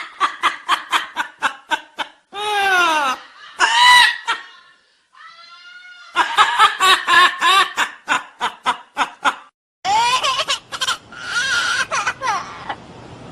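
A parrot imitating human laughter: runs of quick 'ha-ha-ha' pulses, about four or five a second, broken a few seconds in by a couple of swooping whistles.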